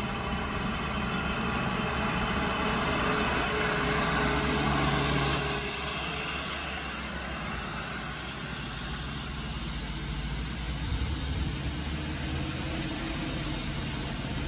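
Heavy sugarcane truck with trailer running under a heavy load, its engine sound swelling to a peak about five seconds in and then dropping away, with a steady high whine over it.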